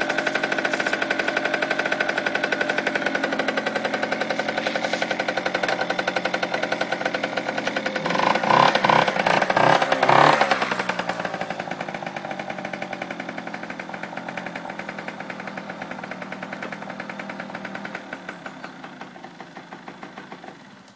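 Honda TLM50 trials bike's small two-stroke single-cylinder engine idling, with a few throttle blips about eight to ten seconds in before it drops back to a steady idle. Near the end the firing slows and fades, and the engine stops.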